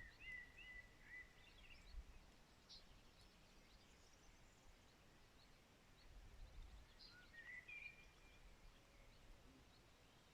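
Faint wild birdsong: scattered high chirps, with a short steady whistled note just after the start and another about three-quarters of the way through, over a faint low background rumble.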